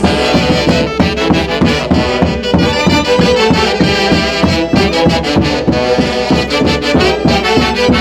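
A live dance orchestra playing an instrumental passage: brass melody over a steady beat.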